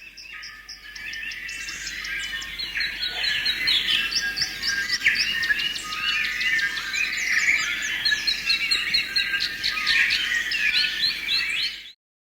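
Songbirds singing, many overlapping chirps, trills and whistles. The chorus fades in over the first couple of seconds and cuts off abruptly near the end.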